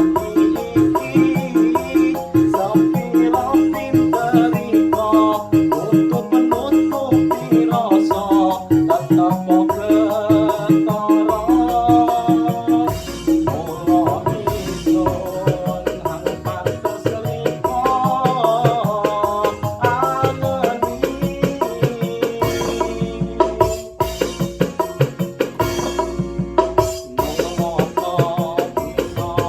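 Dangdut koplo music from an arranger keyboard: a melody line over a programmed hand-drum (kendang-style) and shaker rhythm.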